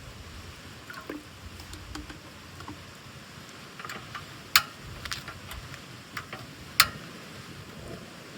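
Small taps and clicks of tableware and utensils during a meal, with two sharper clinks about two seconds apart past the middle, over a low outdoor rumble.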